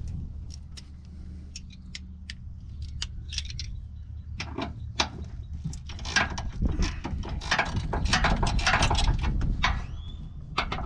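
Metal hand tools and sockets clinking and rattling: irregular sharp clicks, sparse at first and busier from about four seconds in, over a low steady rumble.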